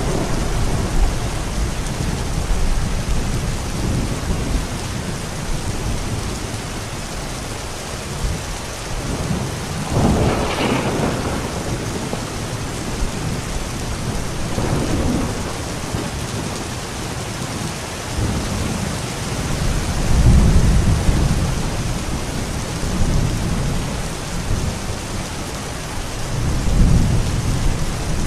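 Steady heavy rain with rolling thunder: low rumbles swell and fade several times, the strongest a sharper crack-and-rumble about ten seconds in and another about twenty seconds in.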